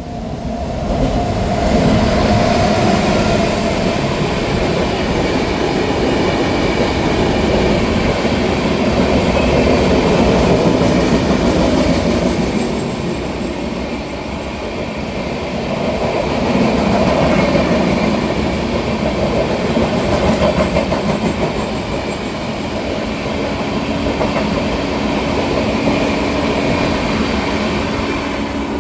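Passenger train passing at high speed: a long, loud rush of wheels on rail that swells and dips as the coaches go by. A steady low hum joins in near the end, and the sound fades over the last seconds.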